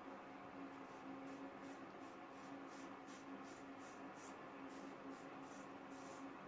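Faint, quick scrapes of a single-edge frame safety razor cutting lathered stubble, about three short strokes a second, over a low steady hum.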